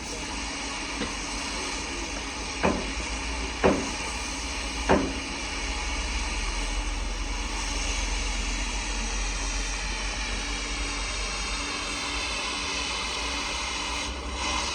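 Steady machine hiss with a high, slowly drifting whine. Three sharp knocks come in the first five seconds, with a lighter one about a second in.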